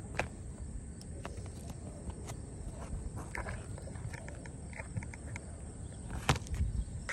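Scattered light knocks and clicks over a low steady rumble, with one sharper knock near the end.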